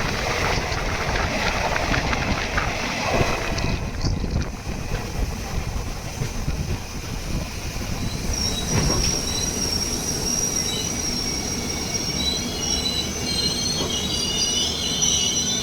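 Passenger train running on the rails with a steady rumble, and the wheels begin squealing against the rails about halfway through, with high, shifting squeals that carry on to the end.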